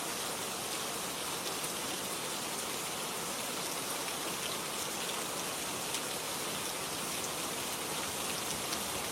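Steady rain, with a dense patter of drops on a surface and a few faint individual drop ticks.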